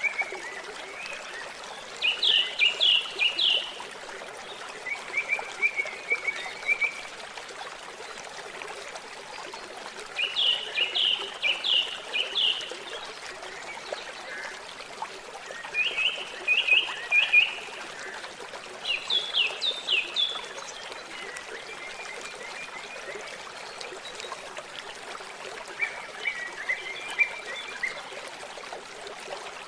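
Steady trickling water, with short trilled calls of rapid repeated chirps from a small animal, each lasting a second or two and coming every few seconds.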